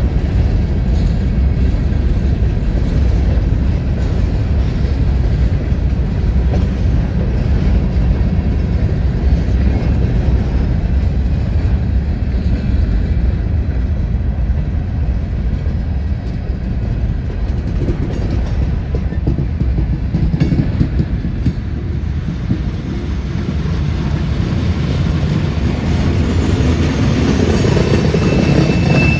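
Freight train rolling past with a steady, loud rumble of railcars on the track, a little louder near the end.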